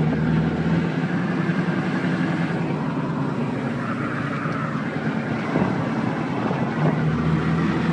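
Acura Integra's four-cylinder engine running as the car is driven, a steady note that shifts in pitch a few times.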